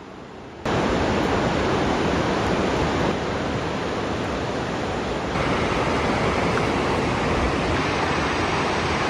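Gocta waterfall's falling water: a steady, even rushing noise that comes in suddenly about a second in and shifts slightly in level twice.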